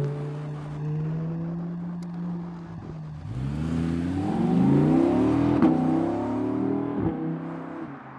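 Audi R8 V10 Spyder's 5.2-litre V10 running steadily, then accelerating hard about three seconds in with the revs climbing. Two short cracks come near the peak, and the note settles lower and quieter near the end.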